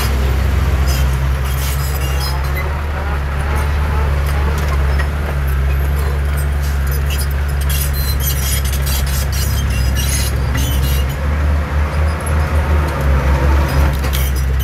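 Heavy diesel earthmoving machinery running steadily, with scattered metallic clinks and a pulsing, wavering engine note from about eleven to fourteen seconds in.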